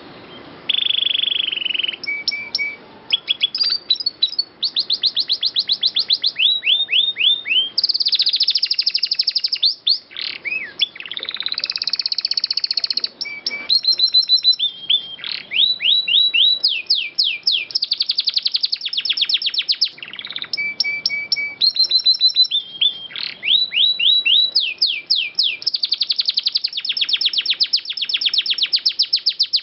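Domestic canary singing a long, nearly unbroken song of fast trilled rolls, runs of rapidly repeated notes and rising and falling whistles.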